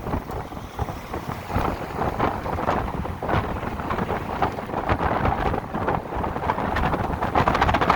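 Wind buffeting the microphone of a rider on a moving electric motorcycle, a rough rushing noise that rises and falls in gusts, with road noise underneath.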